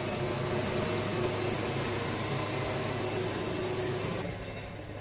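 Wood-Mizer LT70 band sawmill blade cutting through a cypress log: a steady rushing hiss over the mill's running engine. A little past four seconds in, the cutting noise drops away abruptly and the engine keeps running.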